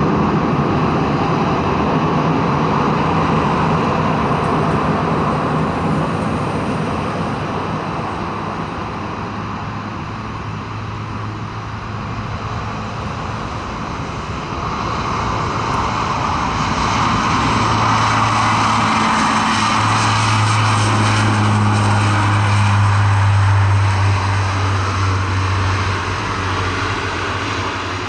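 Four-engine turboprop of a KC-130J running loud, with a steady low propeller hum under the engine noise. It eases off around the middle, then swells again in the second half.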